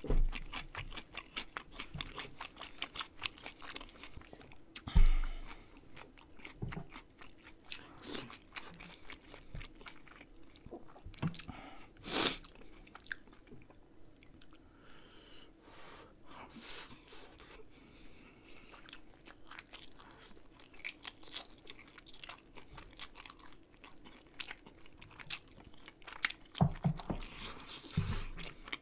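Close-miked chewing and crunching of a mouthful of kimchi, rice and rice-cake dumpling soup, with many small irregular wet clicks. Chopsticks or a spoon knock now and then, with low thumps at the start and about five seconds in and a sharp click about twelve seconds in.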